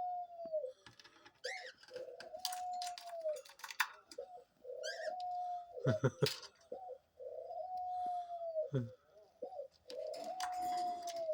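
A pet dove cooing: five long coos, each about a second, repeated roughly every two and a half seconds. Short high bird chirps come in between.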